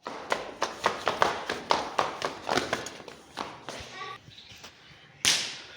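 A quick, uneven run of sharp claps, about four a second, fading after about three seconds; a short pitched call sounds near four seconds in, and a loud burst of noise comes near the end.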